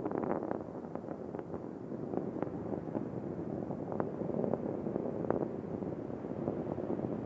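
Rocket engines in flight during ascent: a steady rushing rumble broken by irregular sharp crackles.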